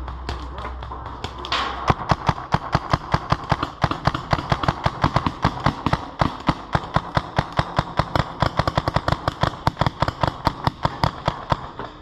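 Paintball marker firing rapidly in a steady stream of sharp pops, about six shots a second, starting about two seconds in and keeping on without pause.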